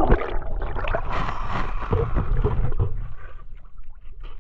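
Water splashing and churning in a hot tub just after a person has jumped in, with gurgling and a few sharp knocks, dying down over the last second or so.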